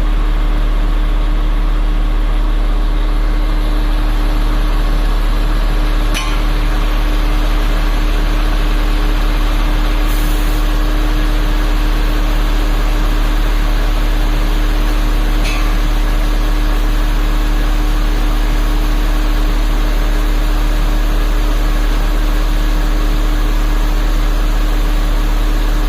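Excavator's diesel engine running steadily, a constant low drone with a steady hum, with a few faint clicks.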